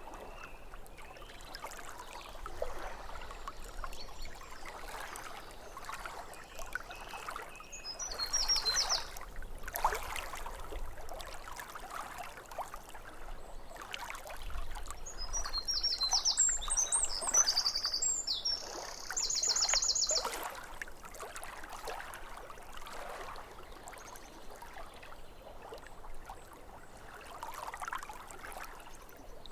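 Small waves lapping at a lake shore in soft, irregular splashes, with birds singing short fast trills about eight seconds in and again between about fifteen and twenty seconds in.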